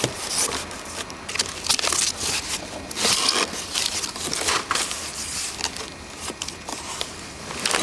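Packaging crinkling and rustling as it is handled, in irregular crackles.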